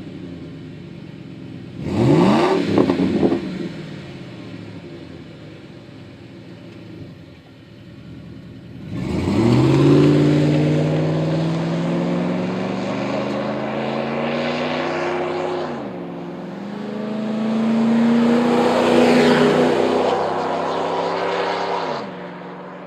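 2004–08 Ford F-150 V8 running through a Flowmaster Force II cat-back exhaust with a Super 50 muffler. A quick rev about two seconds in, then a low steady run. From about nine seconds the engine pulls up in pitch and holds; the pitch drops near sixteen seconds, climbs again, and falls off near the end.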